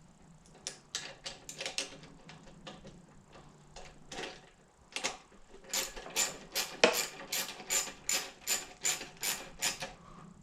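Ratchet wrench clicking as bolts are run in, in a few short bursts at first, then a steady back-and-forth of about two strokes a second over the last four seconds.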